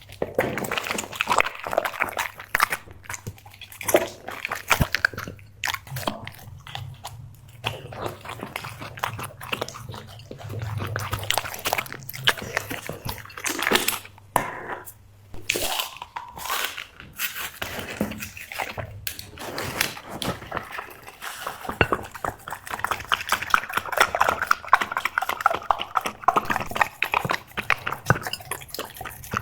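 A dog chewing and crunching its food, with a dense, irregular run of sharp bites and crunches. A faint low hum underneath stops about halfway through.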